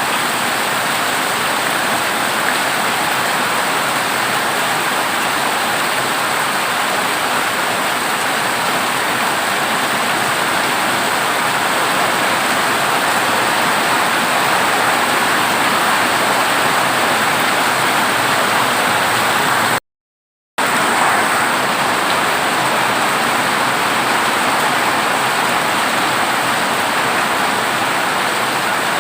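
Heavy rain drumming steadily on a corrugated zinc roof. About 20 seconds in, the sound cuts out completely for under a second and then comes straight back.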